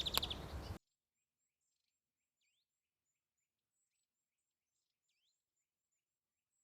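Outdoor ambience with a short, high bird chirp that cuts off abruptly less than a second in. Then near silence, with only very faint high bird chirps.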